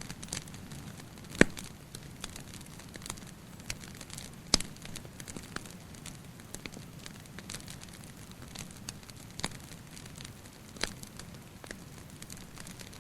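Wood fire crackling: irregular sharp pops and snaps, the two loudest about a second and a half and four and a half seconds in, over a steady low hiss.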